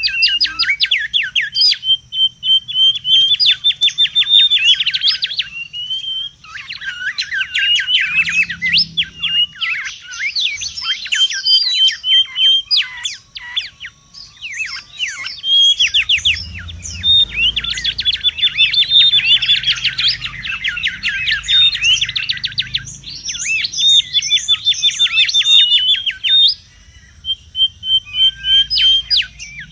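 Mangrove whistlers calling busily: long runs of rapid, sharp repeated notes and whistles, broken by short pauses.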